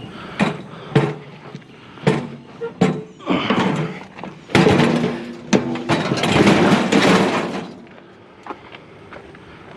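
Scrap metal being handled: a handful of sharp clanks and knocks, then about three seconds of loud rattling and scraping that stops about two seconds before the end.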